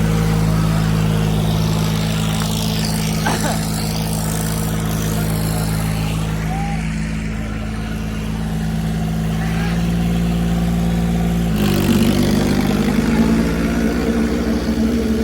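Diesel tractor engine running at a steady speed; about twelve seconds in its pitch steps up and it gets louder as the engine is revved higher.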